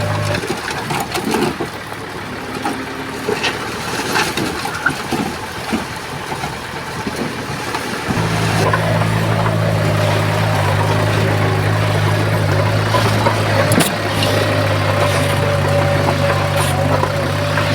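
Komatsu bulldozer's diesel engine running with a steady low drone, among metallic clanks and rattles. The drone drops out just after the start, leaving the clanking, and returns about eight seconds in.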